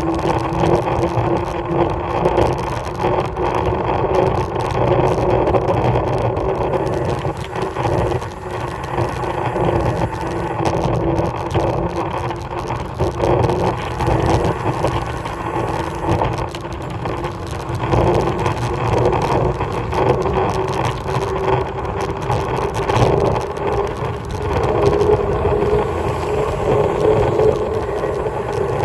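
Steady riding noise on the road: a continuous motor hum that rises slowly in pitch near the end, over low road rumble and wind on the microphone.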